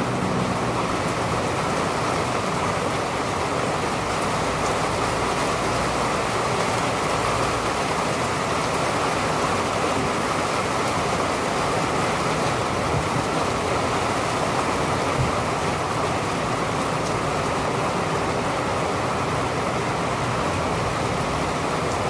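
Steady rain falling, an even unbroken hiss. A faint low hum, fading within the first second or so, sits under it.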